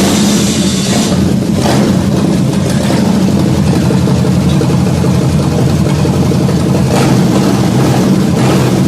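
Ford 302 (5.0-litre) V8 running steadily just after firing up, freshly restored.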